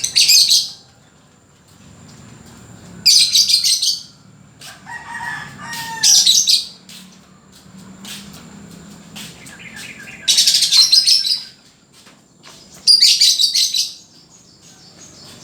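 Lovebird singing in five bursts of shrill, rapid chattering, each about a second long and a few seconds apart.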